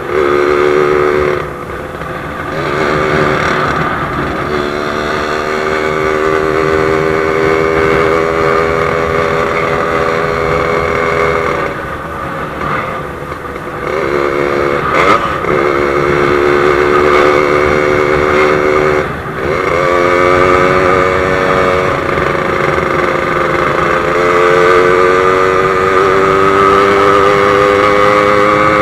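Yamaha RX-King's two-stroke single-cylinder engine running under way as the motorcycle is ridden. Its steady note breaks off briefly a few times, as at gear changes, then picks up again.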